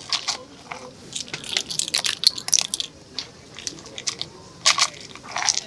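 Irregular crisp crunching and crackling: many short, sharp snaps in quick clusters, loudest about two seconds in and again near the end.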